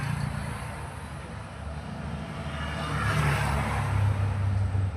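Low engine rumble and noise of a motor vehicle going past, swelling about three seconds in.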